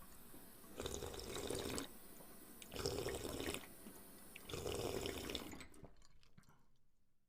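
Water-like rushing sound effect: three surges of about a second each over a steady hiss, which fades out near the end.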